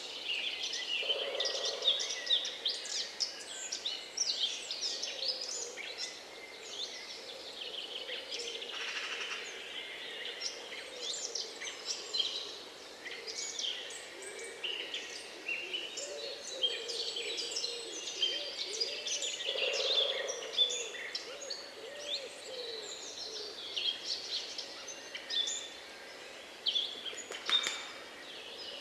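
A dense chorus of many songbirds singing at once, with overlapping high chirps, trills and whistles throughout, and lower warbling calls coming in now and then.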